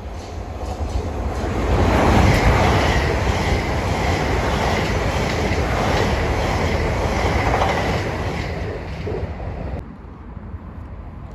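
South Western Railway multiple-unit train passing close along the platform, its wheels clicking evenly over the rail joints under a steady high whine. The sound builds over the first two seconds, holds, then fades and drops off sharply about ten seconds in.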